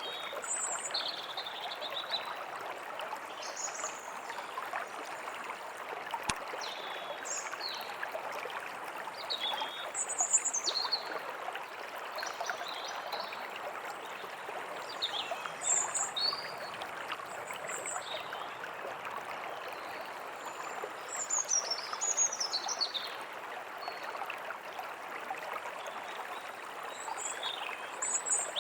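A forest stream running steadily, with short, high bird chirps and calls scattered throughout.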